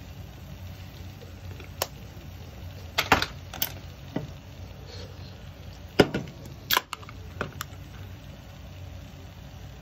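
Breaded shrimp shallow-frying in oil in a hot sandwich-maker plate: irregular sharp pops and crackles, about nine of them, over a steady low hum.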